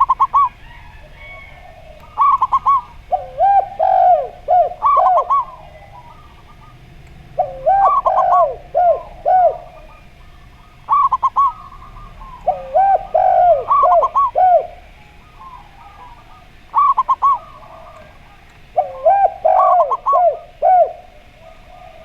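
Zebra dove (perkutut) and a derkuku turtle dove cooing together. A quick series of higher notes overlaps a lower run of coos, and the phrases repeat about every four to five seconds with short pauses between.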